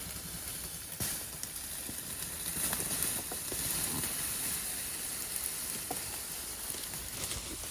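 A steady high-pitched hiss of outdoor background noise, with a few faint clicks and rustles.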